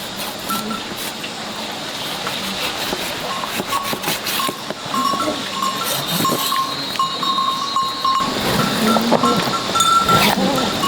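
Farm animals calling, with bleat-like calls that grow busier and louder about eight seconds in.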